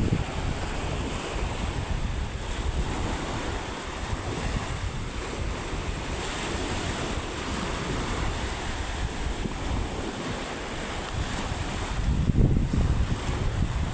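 Surf breaking on the shore in rough weather, with strong wind buffeting the microphone; the gusts grow heavier near the end.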